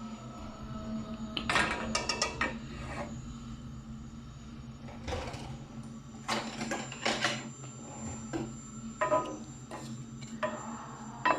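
Kitchen utensils and cookware being handled, clattering and clicking in several short bursts over a steady low hum.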